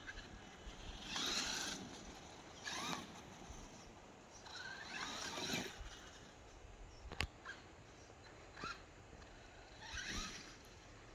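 Electric RC monster trucks driving in short bursts, brushless motor whine rising with the throttle and tyres scrabbling on dirt, four bursts in all, with one sharp knock about seven seconds in.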